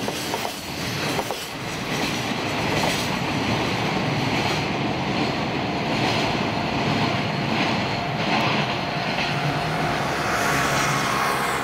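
Container freight train wagons running over the rails: the wheels click over rail joints as the last wagons pass, then a steady rumble as the train draws away along the line.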